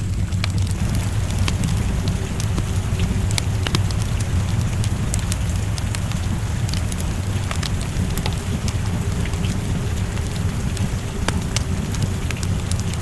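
Steady rain with a low rumble under it, and a wood fire crackling with scattered sharp pops at irregular moments.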